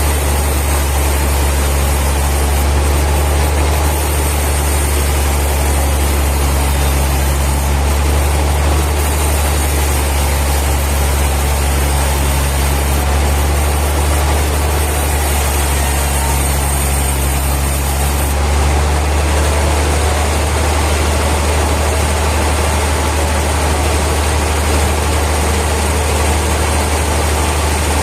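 Heavy sawmill machinery running with a steady, loud low hum, with no cutting strokes or impacts standing out.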